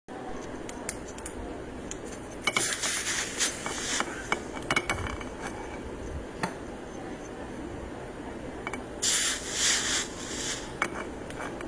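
Hand work with small tools and wire: scattered light clicks and clinks, with two stretches of scraping or rubbing, one from about two and a half to four seconds in and a louder one near nine to ten and a half seconds.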